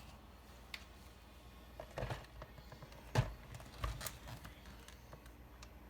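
A few scattered clicks and knocks of kitchen items being handled, the loudest about three seconds in, over a faint steady room hum.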